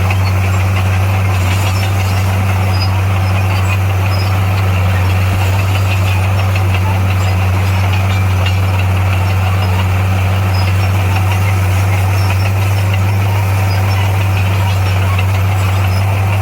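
Heavy earthmoving machine's diesel engine running steadily at a constant low pitch, with no change in speed.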